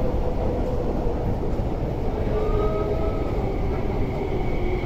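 MTR West Rail Line electric multiple-unit train moving slowly past the platform, a steady low rumble with faint motor tones. A higher tone rises briefly about halfway through.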